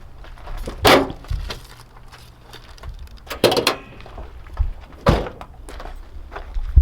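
A few separate knocks and thuds, about four of them spaced a second or two apart.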